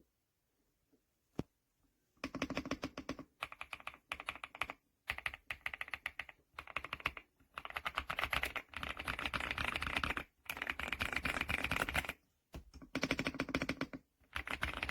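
Rapid typing on an EPOMAKER x Aula F75 gasket-mount mechanical keyboard: a single keystroke, then from about two seconds in, fast runs of keystrokes broken by short pauses.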